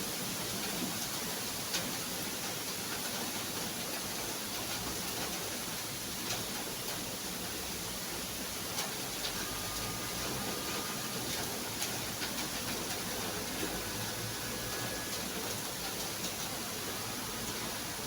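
Steady rain hiss with many small scattered ticks of drops landing.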